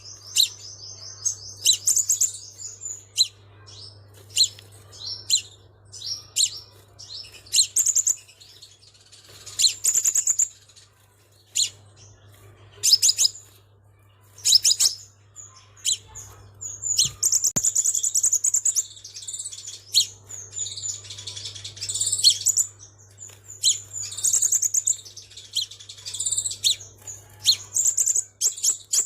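Sunbird singing: rapid high-pitched chirps and twittering trills in quick clusters, broken by sharp single chips. A faint steady low hum runs underneath.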